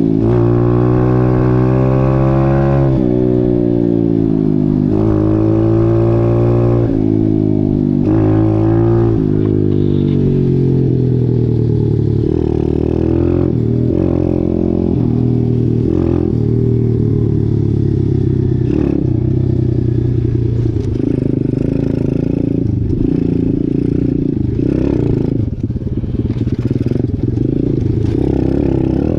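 Dirt bike engine being ridden, revving up and falling back several times in the first ten seconds, then running at a steadier, lower pitch, with scattered knocks and clatter.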